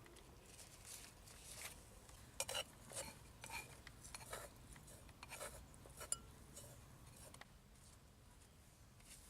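Faint, scattered clicks and scrapes, several in quick succession over a few seconds, then near silence toward the end.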